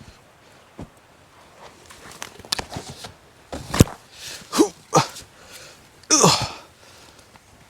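A person climbing over fallen tree trunks in fresh snow: scattered footsteps in the snow and knocks and snaps against the wood, with a short grunt of effort about halfway through and a loud, hard breath out a little after six seconds in.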